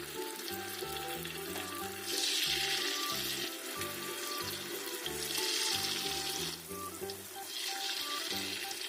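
Batter-coated meatballs deep-frying in hot oil: a steady sizzle that swells louder three times.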